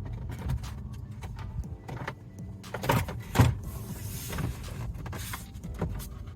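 Plastic dash trim being handled and fitted back into place: small clicks and rubbing, with two louder knocks about three seconds in.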